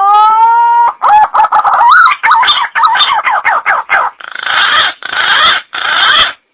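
Green pigeon (punai) calling: a rising whistle, then a run of wavering, warbling whistled notes broken by short gaps, ending in three rougher phrases before it cuts off abruptly.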